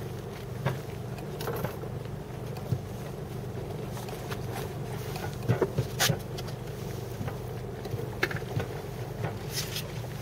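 Small wooden fishing boat's engine running with a steady low hum, with scattered sharp clicks and knocks on and around the boat.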